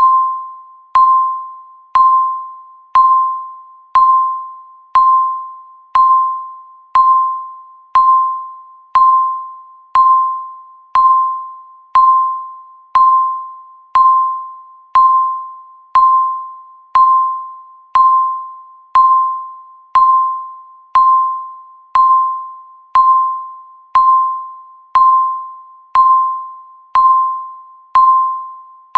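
Countdown timer's tick sound: a clear electronic ding struck once every second, each one starting sharply and fading away before the next.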